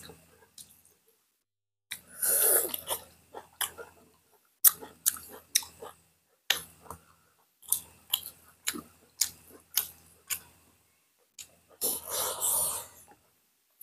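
Close-up chewing and lip-smacking of people eating boiled pork, rice and greens by hand: sharp wet clicks and smacks at an uneven pace. Two longer, louder stretches of eating noise come about two seconds in and near the end.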